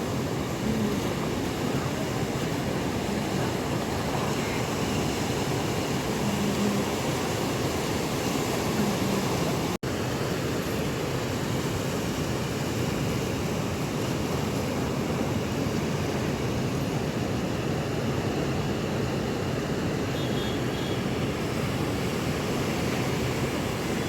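Rough monsoon sea surf and wind making a steady, unbroken noise. The sound cuts out for an instant about ten seconds in.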